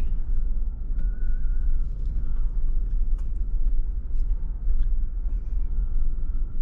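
Vehicle driving on a rough dirt trail, heard from inside: a steady deep engine and road rumble with a few small clicks and rattles.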